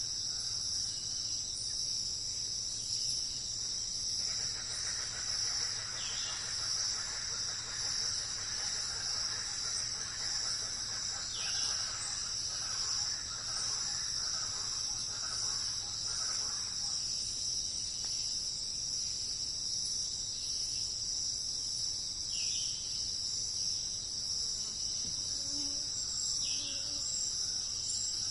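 A steady, high-pitched chorus of insects runs throughout, with a few short, downward-sliding bird calls, four of them spaced several seconds apart.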